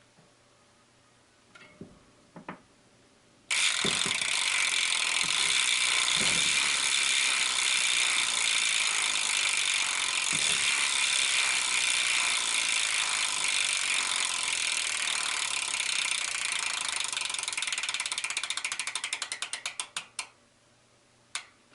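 Hope Pro 2 Evo single-speed trials rear hub freewheeling after the wheel is spun: its pawls give a loud, fast, even buzz of clicks that starts suddenly a few seconds in. Near the end the clicks slow into separate ticks, spread out and stop as the wheel runs down.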